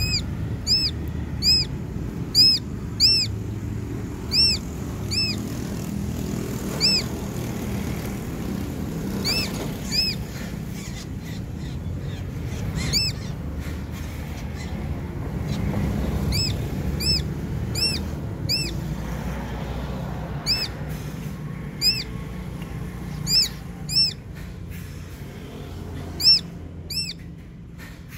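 A bird calling over and over in short, clear, arched whistled notes, about one or two a second, in bouts with short pauses, over a low rumble.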